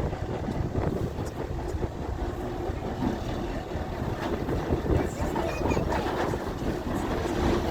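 Train running: a steady low rumble with scattered clicks.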